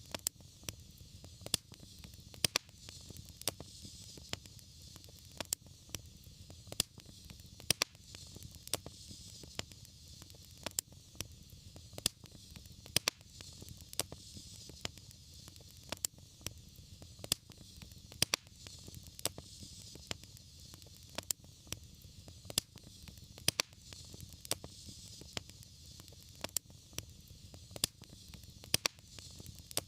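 Wood fire crackling, with irregular sharp pops one to a few times a second over a steady low rumble and a soft hiss.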